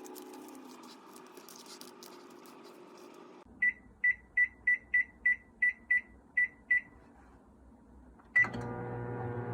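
Microwave oven keypad beeping about ten times as buttons are pressed, after a few seconds of hiss. Near the end there is one more beep, and the oven starts its steady low hum as it begins heating.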